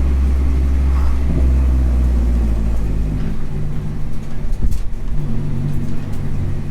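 Engine of a 300 hp Mini R55 Clubman race car running at low revs, heard from inside the cabin: a steady low drone that turns rougher and more uneven about halfway through, with a few sharp knocks around four to five seconds in.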